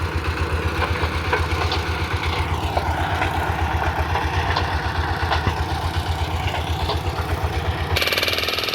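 An engine at a mine pit running steadily with a rapid, even beat. Near the end the sound changes abruptly to a different machine with a faster, finer pulse.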